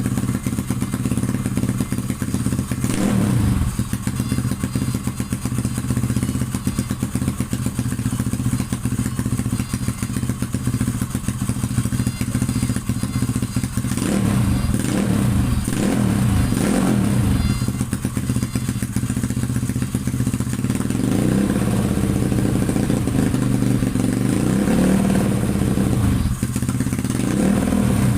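Motorcycle engine idling steadily, then given a few short throttle blips about halfway through and held at higher, wavering revs near the end, as in an exhaust sound check.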